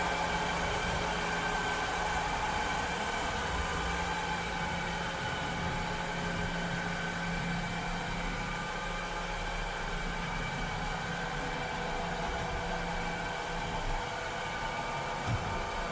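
Robot vacuum cleaner running: a steady whir of motor and suction with several steady whining tones over a hiss. A low hum underneath fades out after about twelve seconds, and a couple of faint knocks come near the end.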